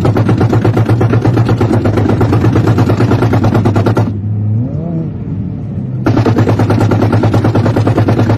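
Car engine running hard under acceleration, heard from inside the cabin, with a fast pulsing drone. It drops away for about two seconds midway, with a faint wavering whine, then pulls hard again.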